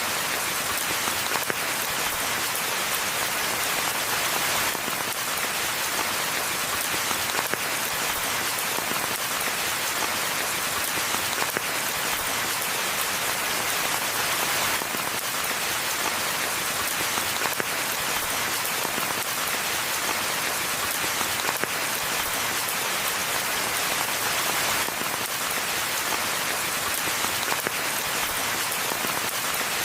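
Steady rainfall: an even hiss of many drops pattering, without let-up.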